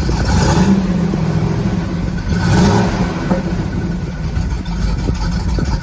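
A car engine running with a steady low rumble, swelling briefly twice.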